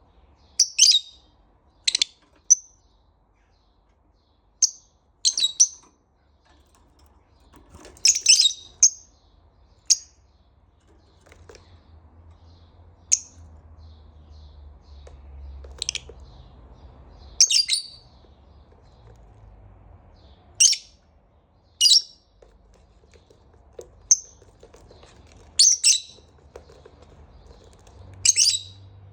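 Pet lovebird giving short, sharp, high-pitched chirps, one every one to three seconds at an irregular pace.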